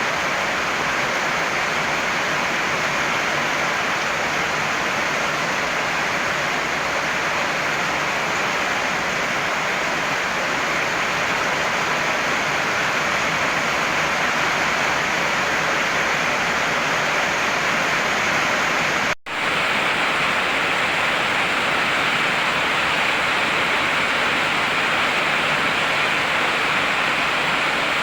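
Heavy rain falling in a steady, even rush. It is broken once, about two-thirds of the way in, by a split-second gap of near silence.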